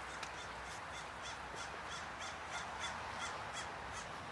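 A bird calling in a quick series of short, arched calls, about three a second, which stop near the end. A steady background hiss runs under them.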